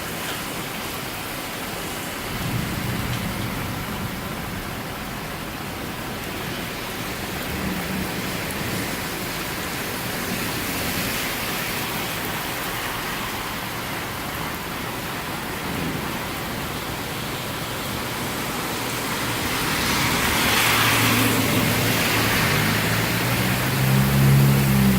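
Heavy thunderstorm rain falling steadily, a dense even hiss. About twenty seconds in the hiss swells louder, and a low pitched hum comes in near the end.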